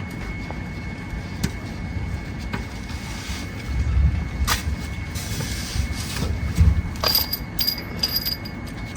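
Low, uneven rumble of a car running, swelling a little about halfway through, with scattered sharp clicks and a few short high ringing tones near the end.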